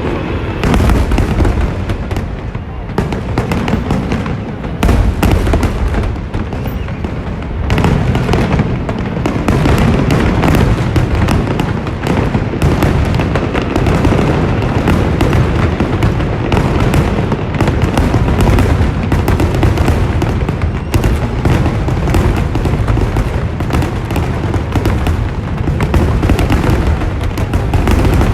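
Fireworks display: a dense, continuous barrage of bursts and deep booms, building to a near-constant crackle and thunder from about a quarter of the way in.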